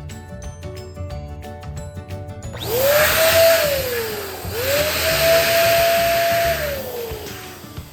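Electric balloon inflator running in two bursts of about two and three seconds, each a rising whine as the motor spins up, a steady hum with rushing air while a balloon fills, and a falling whine as it winds down.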